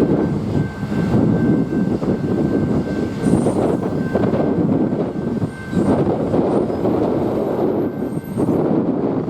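Train rolling past close by: a loud, steady rumble of wheels on the rails, with a faint steady tone above it.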